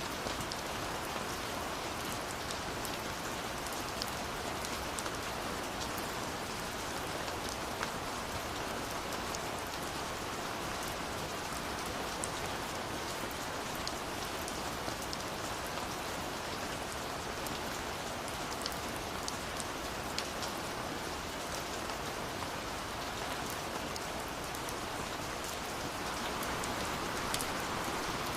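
Steady rush of a waterfall, with the scattered small pops and crackles of a burning wood fire over it.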